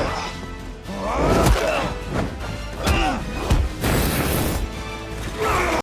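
Action-film fight soundtrack: music with a series of hard punch and crash impacts, and a loud rushing burst about four seconds in.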